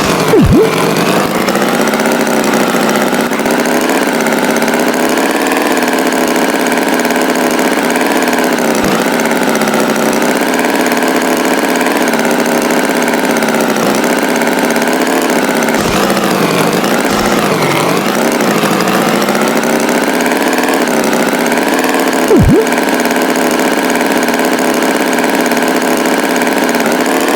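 Tractor engine running steadily at a low, even speed, with two brief sharp sounds: one just after the start and one near the end.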